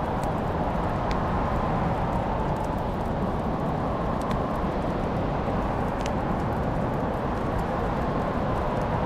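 Fireplace fire crackling, with a few sharp pops standing out over a steady low rush of noise.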